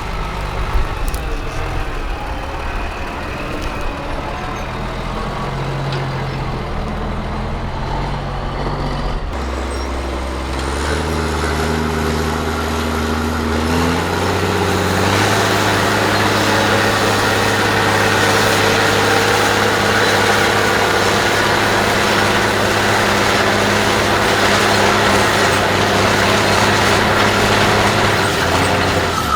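Heavy 6x6 trial truck's diesel engine working hard, stepping up in pitch several times through the middle and then running loud and steady at high revs for the second half.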